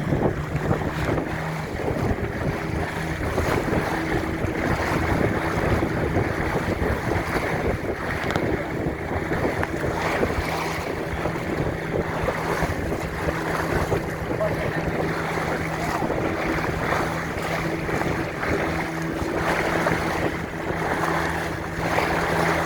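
Motorboat engine running at a steady pitch, with wind buffeting the microphone and water rushing past the hull.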